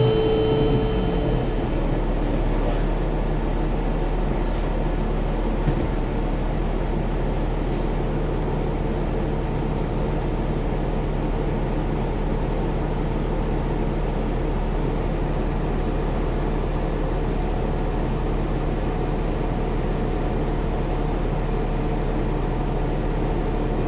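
Steady running noise of a bus, with a constant low hum. A chime's tones fade out in the first second or so.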